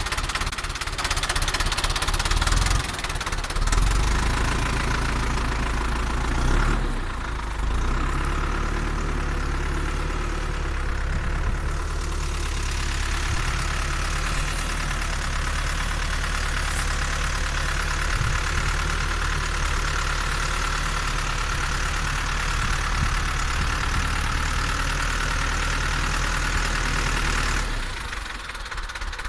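SAME Explorer 95 tractor's diesel engine running with a steady knocking beat. It swells briefly about four seconds in and again near seven seconds, then runs evenly and drops to a quieter level near the end.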